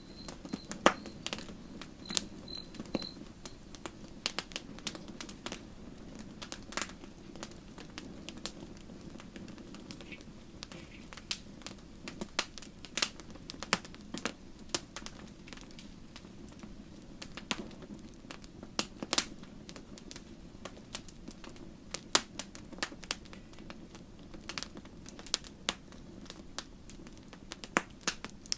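Wood campfire crackling: irregular sharp pops and snaps over a steady low background of the burning fire. A short series of faint high peeps comes during the first few seconds.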